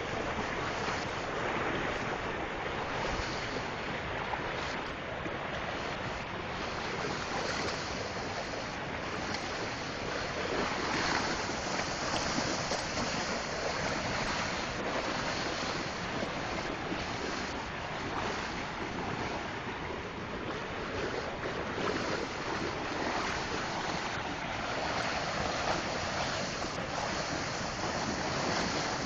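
Swollen, fast-flowing river in flood, rushing water making a steady, even noise, with wind on the microphone.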